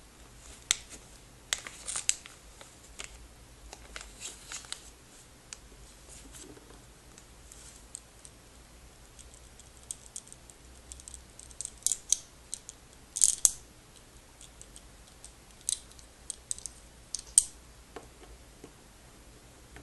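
Sharp clicks and taps of small hard objects handled close to the microphone, coming irregularly in clusters, with the loudest few about two thirds of the way through.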